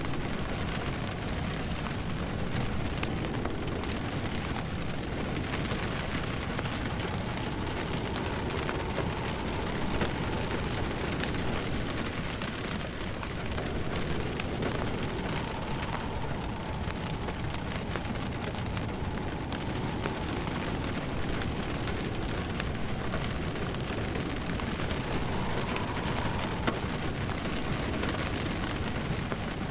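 Steady rain falling, with a wood fire in a fireplace crackling and popping over it. A faint wavering whistle rises and fades now and then behind the rain.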